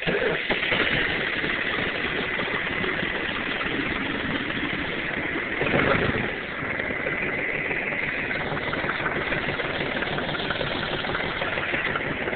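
John Deere tractor engine cold-starting on a frosty morning: it catches at once and settles into a steady idle, with a brief rise about six seconds in.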